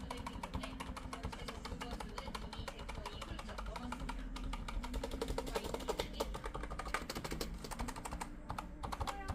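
Fast, continuous typing on a Razer BlackWidow mechanical keyboard, many key clicks a second, as the keyboard is typed on to test it after a repair for key chattering.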